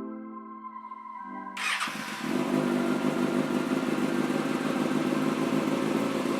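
Held synthesizer chord that stops about a second and a half in, followed by a motorcycle engine, a 2013 Kawasaki Ninja ZX-6R's, running steadily.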